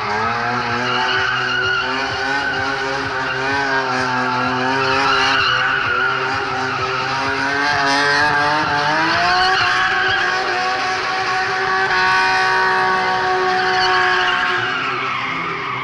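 BMW car engine revving hard and held high while its tyres spin and skid through donuts on tarmac. The engine pitch wavers, climbs about nine seconds in, holds steady for a few seconds, then drops near the end.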